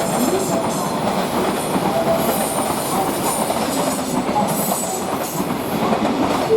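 Freight train's wagons rolling past at speed: a steady rumble and clatter of wheels on rail, with a few short faint wheel squeals.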